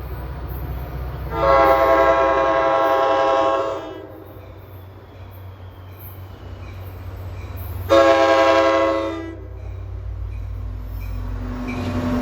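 A train's air horn sounds two blasts, a long one of about two seconds and then a shorter one about four seconds later, over the low rumble of a diesel locomotive.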